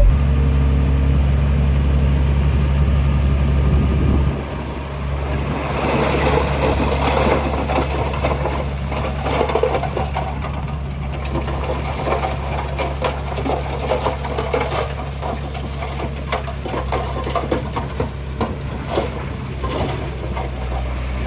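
Heavy diesel earthmoving machinery running steadily at a low pitch. From about five seconds in, rock and soil rattle and crunch over it, with many sharp clacks of stone.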